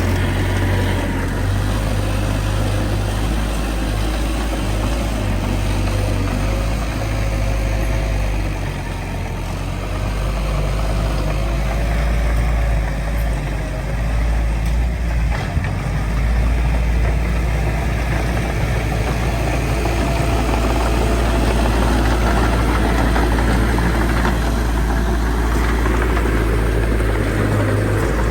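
Heavy diesel earthmoving machinery running steadily with a deep, continuous engine rumble, easing slightly around the middle and rising a little in the second half.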